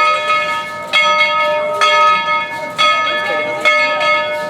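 Baldwin steam locomotive #190's bell ringing steadily, struck about once a second, the warning rung as the train moves off.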